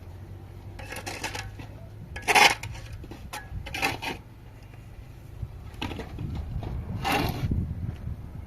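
Hard objects clattering and scraping in about five short bursts, the loudest a sharp clank a little over two seconds in, over a steady low hum.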